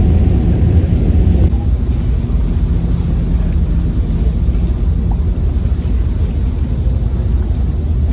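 Passenger ferry's engine rumbling steadily, heard on board. The higher part of the noise drops away about a second and a half in.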